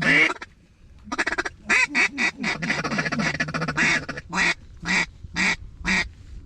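Mallard-style duck call blown in a string of loud quacks, used to call in ducks. A quick run of notes and a longer chatter come first, then single quacks about half a second apart near the end.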